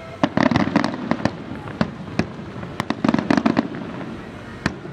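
Aerial fireworks exploding: a rapid flurry of sharp bangs and cracks in the first second, a couple of single bangs, another dense flurry around the middle, and one last bang near the end.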